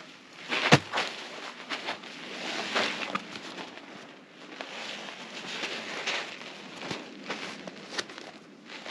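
Folding hand saw cutting through a resinous fatwood pine knot, uneven rasping strokes, with a sharp knock about a second in and another near the end.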